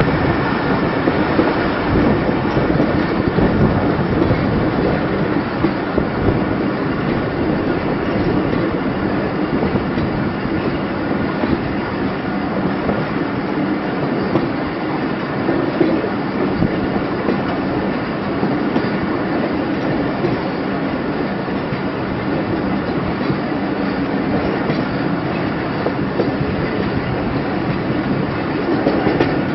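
Pakistan Railways Khyber Mail passenger train running on the track, with steady wheel-on-rail noise.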